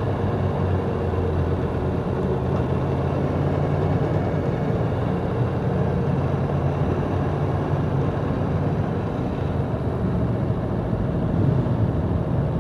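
Aprilia Tuono V4 RR's V4 engine running steadily at low revs, without revving up.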